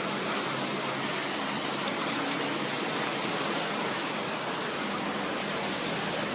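Floodwater rushing steadily after heavy rain.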